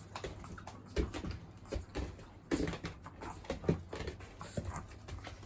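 A Chihuahua whimpering in short, rising whines, mixed with light clicks and knocks.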